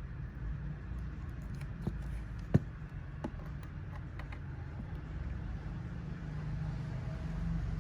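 A handful of short, sharp clicks and taps, the loudest about two and a half seconds in, over a steady low rumble.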